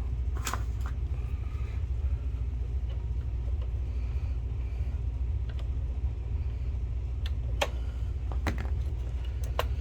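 Small plastic parts of a DLP projector being handled and a connector plugged back in: a few sharp, separate clicks, one about half a second in and several more in the last two seconds. A steady low rumble runs underneath.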